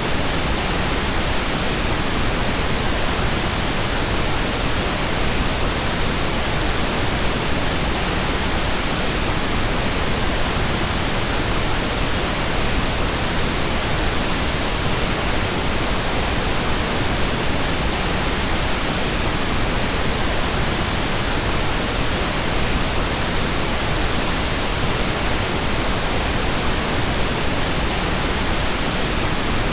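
Steady, continuous pink noise: an even hiss spread across all frequencies, unchanging throughout.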